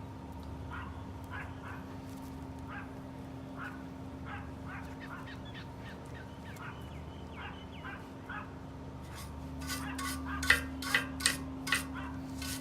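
Steady workshop hum with short, irregular high squeaks for most of the time, then, from about ten seconds in, a run of sharp metallic clanks, which are the loudest sounds.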